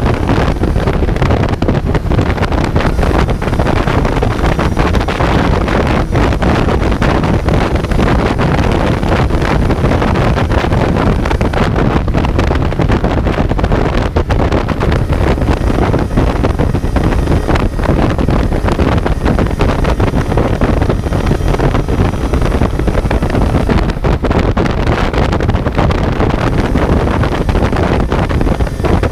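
Kawasaki Z900's inline-four engine running steadily while riding, heard on board with heavy wind buffeting on the microphone.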